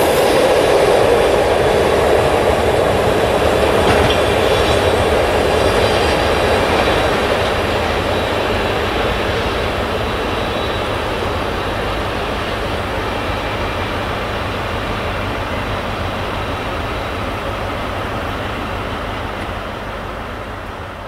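Intermodal freight train's container wagons rolling past at speed. The rumble is loudest in the first few seconds and fades gradually as the train draws away.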